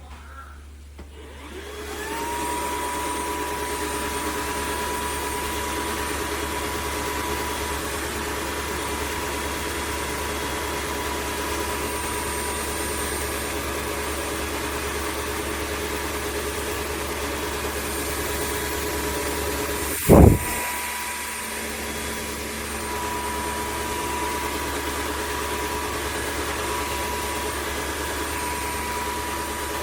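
Dreame H12S wet-dry vacuum mop starting up, its motor whine rising and settling about two seconds in, then running steadily with a high hum over a rushing hiss. About twenty seconds in there is one loud, sharp knock, and after it the machine runs a little quieter for a couple of seconds.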